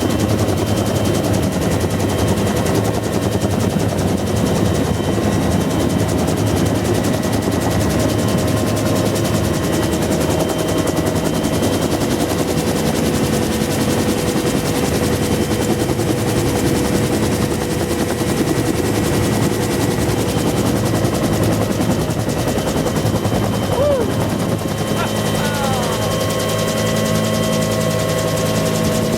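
Bell UH-1 Huey helicopter in flight, heard from the cabin: a fast, steady chop of the two-blade main rotor over the constant whine of its turbine engine.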